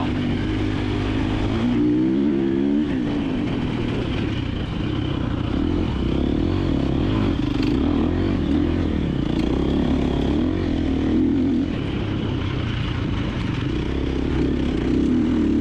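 2024 KTM 350XC-F dirt bike's single-cylinder four-stroke engine running under the rider's throttle, revving up and dropping back again and again.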